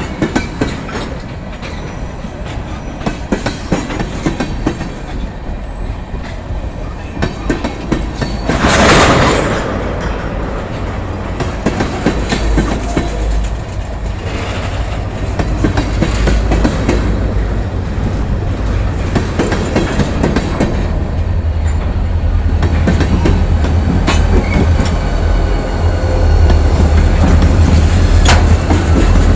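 Freight train backing slowly, its railcar wheels clicking and clanking over the rails. About nine seconds in there is a brief loud rushing noise, and a deep diesel locomotive rumble grows louder through the second half.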